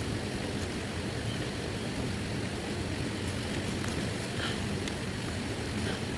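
Steady heavy rain: a dense, even hiss with a few faint ticks of single drops.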